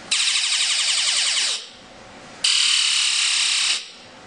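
Electronic galactic sound generator circuit playing buzzy sci-fi sound effects through its small speaker, in two bursts of about one and a half seconds each, each lasting while a tactile switch is held down. The first burst is made of rapidly repeating sweeps, and the second, starting about two and a half seconds in, is a steadier buzzing tone.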